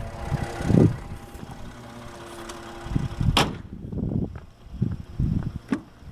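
Ford F-150 engine idling faintly, then stopping with a single sharp click about three seconds in. Irregular low thumps and knocks follow.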